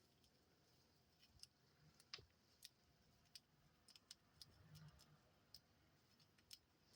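Near silence with faint, scattered small clicks, irregularly spaced.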